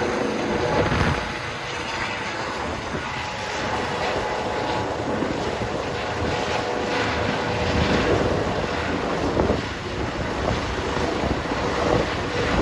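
Airbus H135 helicopter flying, a steady rumble of its rotors and twin turbine engines with a faint steady whine.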